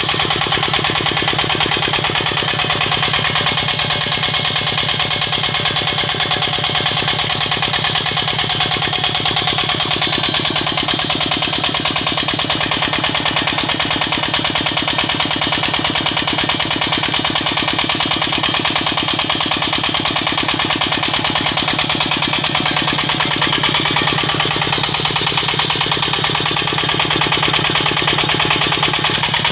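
Petter-type diesel engine of a tube well running steadily at a constant speed, with an even, rapid beat.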